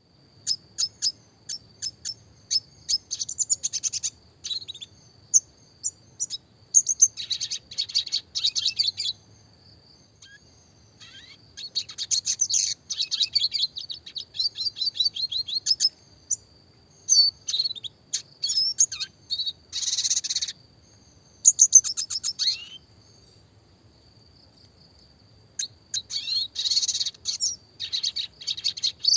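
Red siskin singing: bursts of rapid twittering trills and sharp chirps a few seconds long, broken by short pauses, with a longer pause of a few seconds near the end. A thin, steady high tone runs underneath.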